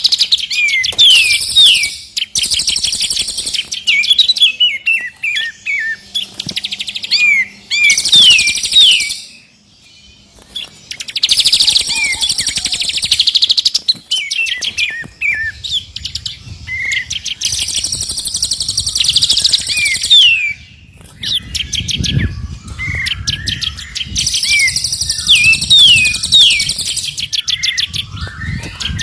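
Songbird masteran recording mixing three birds' songs, including the white-rumped shama: fast chattering trills and repeated downward-slurred whistles, with a short break about ten seconds in.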